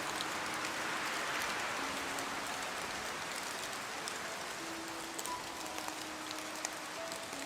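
Steady rainfall, an even hiss with scattered sharp drop ticks. Faint, long-held soft notes of background music sound under it.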